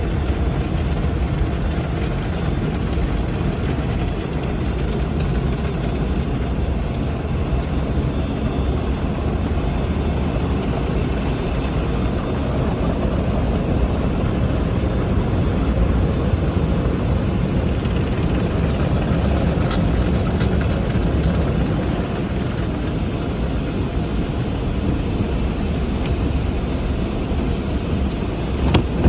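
Automatic tunnel car wash working over a car: a steady, loud rumble and wash of machinery and water that keeps on without a break.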